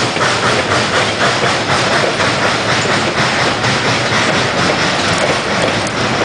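Freight train cars rolling past behind a steam locomotive, their wheels clattering over the rail joints.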